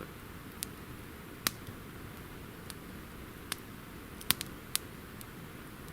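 Campfire wood crackling: a handful of sharp, irregular pops and snaps, the loudest about four and a half seconds in, over a faint steady hiss.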